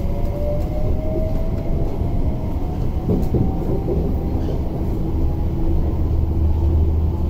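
Inside an MTR East Rail Line IKK (SP1900) electric train accelerating away from a station: the traction motors give a whine that slowly rises in pitch over the steady rumble of the wheels on the track.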